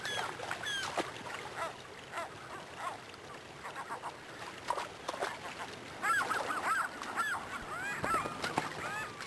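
A flock of birds calling: many short, arching calls, scattered at first, then crowding together and louder about six seconds in.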